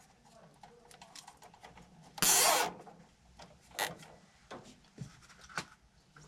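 A cable tie pulled tight around wiring: one short, loud ratcheting zip a little over two seconds in, among scattered small clicks and rustles of the wires being handled.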